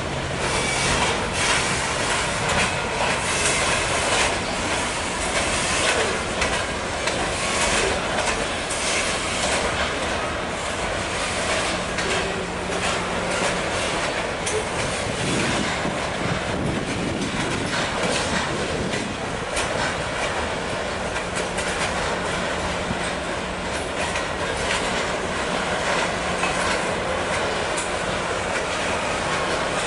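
Train rolling past, its cars' wheels clacking over the rail joints in a steady run of clicks under a continuous rumble.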